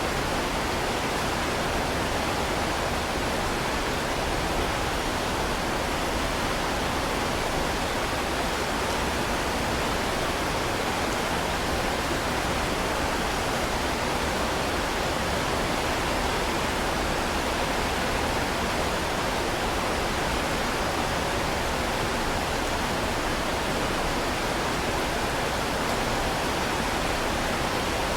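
Heavy rain falling as a steady, even hiss, with no thunder or separate drops standing out.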